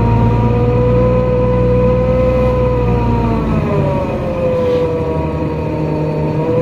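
NefAZ-5299 city bus heard from inside: a steady drivetrain whine that glides in pitch with road speed, over a low engine hum. About three and a half seconds in the hum drops away and the whine falls in pitch as the bus slows, then the whine climbs again near the end.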